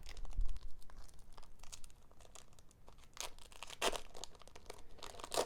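Foil Pokemon booster pack wrapper being torn open and crinkled, a run of small crackles with a few sharper ones.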